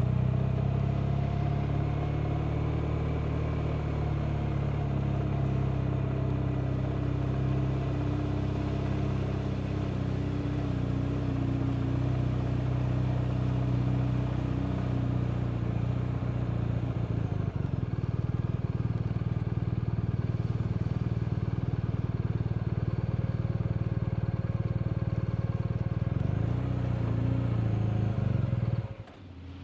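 BMW R 1250 RT's boxer-twin engine running steadily under way at fairly even revs, with wind and road noise. It cuts off abruptly near the end.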